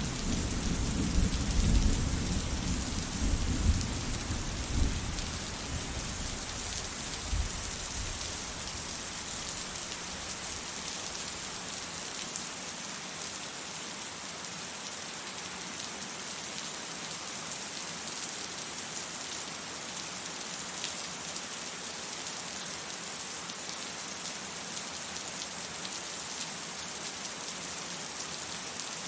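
Steady heavy rain hissing, with a low rumble of distant thunder that dies away in the first third.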